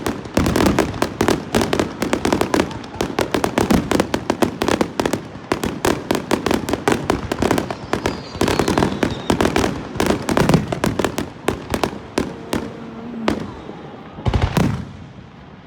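Fireworks going off in a rapid, dense barrage of bangs and crackles, many per second, thinning out about twelve seconds in, followed by one heavier boom near the end.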